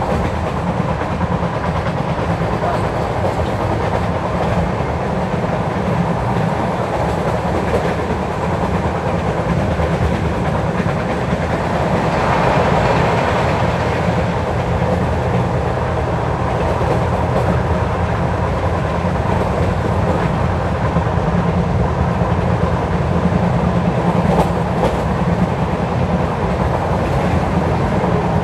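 LHB passenger coach of an Indian express train running at speed, a steady rumble of wheels on the track heard from a window seat. The sound swells briefly about twelve seconds in.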